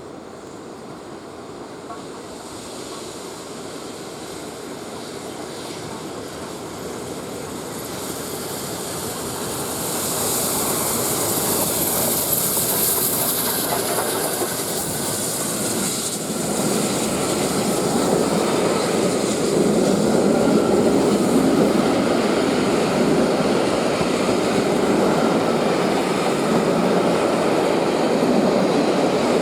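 Peppercorn A1 Pacific steam locomotive 60163 Tornado and its train approaching at speed, the rail noise growing steadily louder over about ten seconds with a brief high hiss, then the train passing close by with a heavier rumble and wheel clatter on the rails.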